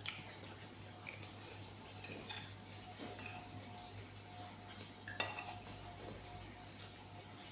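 Eating utensils clinking against a bowl of noodles: a handful of separate sharp clinks, the loudest about five seconds in.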